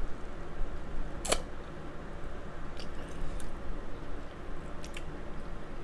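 Close-mic eating sounds of king crab legs in butter sauce: wet chewing, with one sharp click about a second in and a few fainter clicks later. A room fan hums steadily underneath.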